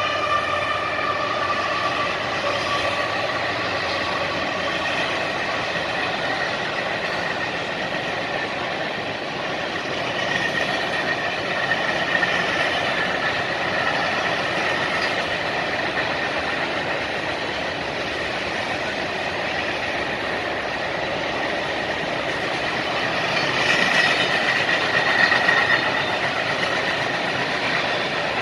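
CSX freight train rolling past, with a steady rush of wheels on rail and some clickety-clack over the joints. A locomotive horn chord trails off at the very start. A thin high ringing of wheels against rail rises about a third of the way through and again near the end.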